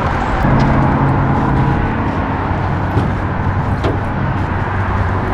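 Road traffic on the bridge overhead: a steady noise of passing vehicles, with a low engine hum that is strongest for the first couple of seconds.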